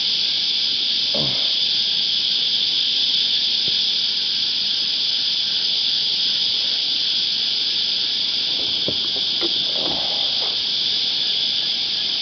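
Cicadas calling in a continuous, steady, high-pitched chorus. A few faint short sounds come through about a second in and again near three-quarters of the way through.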